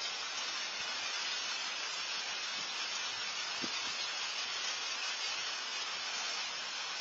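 Steady rain falling, an even hiss, with one faint tap about three and a half seconds in.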